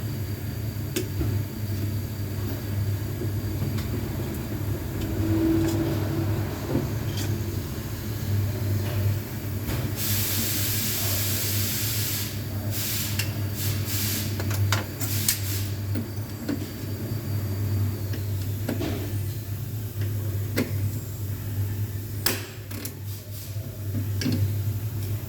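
Scania truck's diesel engine idling with a steady low hum, with scattered clicks and knocks and a loud two-second hiss about ten seconds in.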